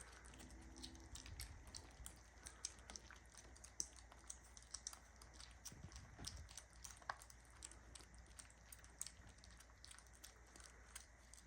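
Kittens eating wet cat food from bowls: faint, irregular wet clicks and smacks of chewing and lapping, several a second.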